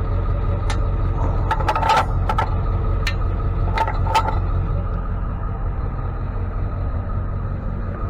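A vehicle's engine running in a steady low drone, with a handful of sharp clicks and clinks in the first four seconds or so.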